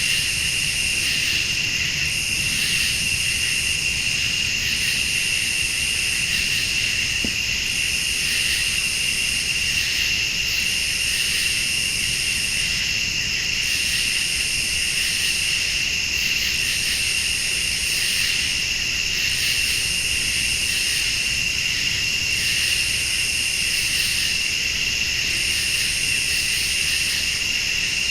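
Night insect chorus of crickets and late-summer bugs: a steady high trilling, with a still higher-pitched chorus that swells on and stops in a regular rhythm about every two seconds.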